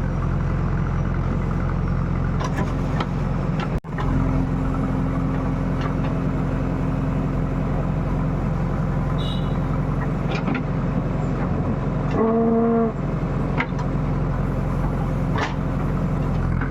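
Diesel engine of a JCB digger running steadily, with a short horn toot about twelve seconds in.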